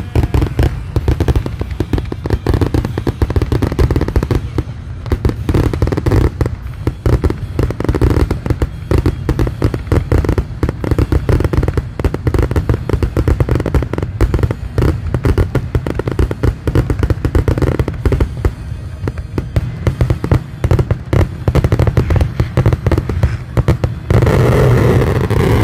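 Fireworks finale barrage: a dense, unbroken run of rapid bangs, many each second. Near the end the bangs merge into a steadier wash of noise.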